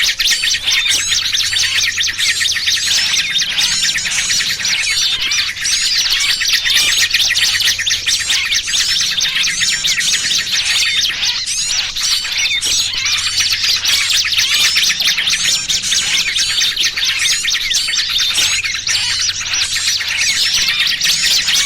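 Dense chorus of many small birds chirping rapidly and without pause, calls overlapping: a bird-lure mix of agitated yellow-vented bulbul calls and the frantic calls of distressed small birds.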